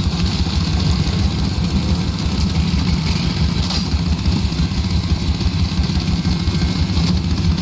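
Small gas engine of an old log splitter running steadily at idle, with a fast, even low pulse.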